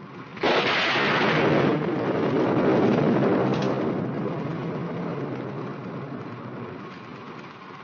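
A thunderclap, breaking suddenly about half a second in and rumbling on, slowly dying away over the next several seconds.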